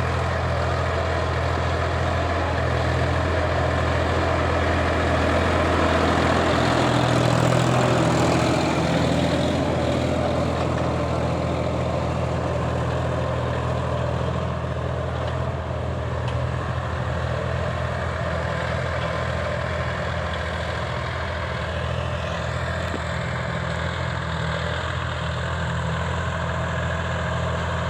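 Solis 4215 tractor's diesel engine running steadily, swelling a little louder for a few seconds about a quarter of the way in, then settling back.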